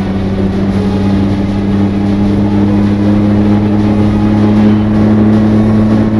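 Vehicle engine running under way, a steady hum whose pitch and loudness rise slowly as it gathers speed.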